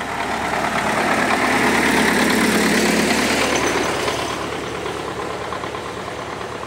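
Tractor engine running under load, revving up a second or so in and then easing off, as the heavily loaded tractor struggles to climb a soft sandy slope and digs in.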